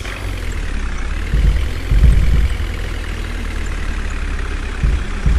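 Twelve-wheeler truck's engine running, a steady deep rumble that swells briefly about two seconds in and again near the end.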